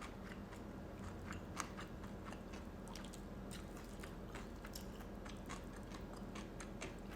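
A person chewing food close to the microphone: a steady run of small irregular mouth clicks.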